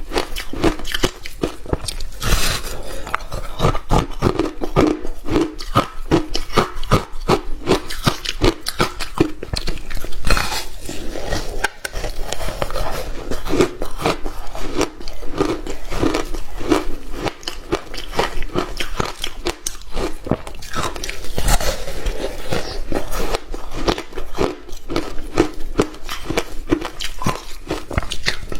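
Hard ice being bitten and chewed close to the microphone: dense, continuous crunching and cracking, with a few louder bites.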